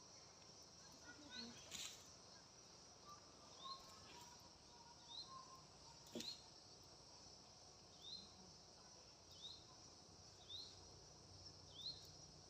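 Faint outdoor ambience: a steady high insect buzz, with a short rising chirp repeating about every second and a quarter and a couple of sharp clicks.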